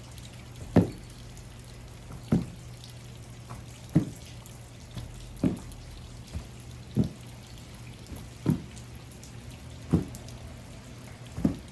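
Thuds of feet landing from big two-footed jumps on a floor, one about every second and a half, eight in all, over a steady low hum.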